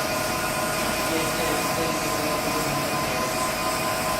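CNC lathe running steadily during a dry run, a constant mechanical hum with a few steady whining tones over it. The spindle head had been damaged in a crash, and the machinist remarks on the machine vibrating.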